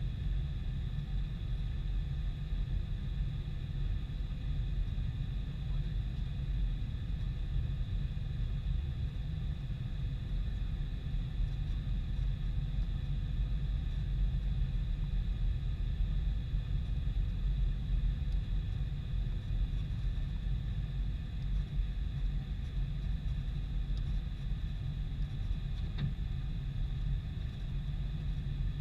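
Boeing 747-400 jet engines running with a steady low rumble and faint, constant high tones, with no rise or fall in power.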